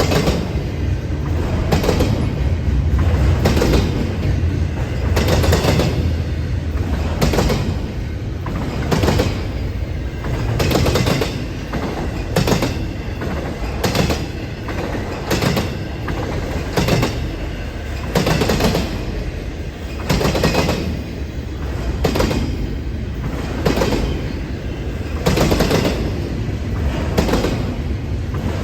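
Norfolk Southern freight train's cars rolling past, their wheels clacking over the rail joints about once a second over a low steady rumble.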